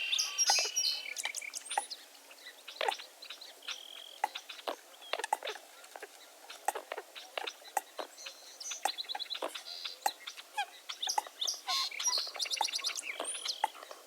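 Many birds calling at once: a dense mix of short, sharp chirps and clicks, with a few longer buzzy calls of stacked tones near the start, around the middle and near the end.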